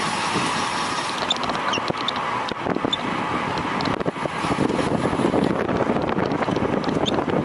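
Wind buffeting a camera microphone carried along at race speed in a bicycle road race, a steady rushing noise that grows louder about four seconds in. A few faint high ticks sound over it.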